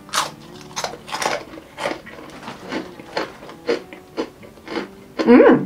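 Crunchy Herr's sourdough pretzel bites being chewed with the mouth closed, about two or three crisp crunches a second, with a short hummed voice sound near the end.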